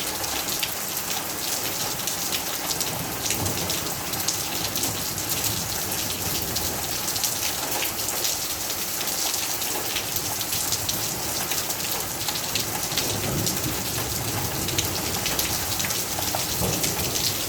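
Steady rain falling: a dense, even hiss with many individual drops tapping on a surface.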